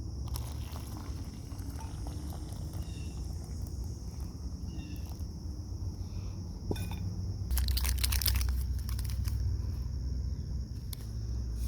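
Insects trilling steadily, crickets by the sound of the surroundings, with a click about seven seconds in and a stretch of crinkling, rustling handling noise a moment later.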